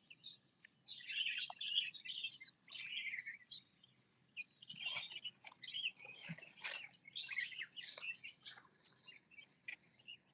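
Birds chirping in clusters of short, high calls, with denser, higher chirping from about six seconds in.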